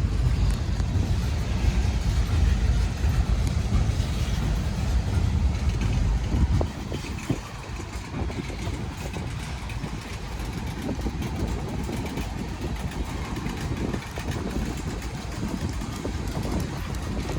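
Freight cars of a passing manifest train rolling by: a continuous rumble with irregular clatter from the wheels on the rails. The deepest part of the rumble drops off about seven seconds in.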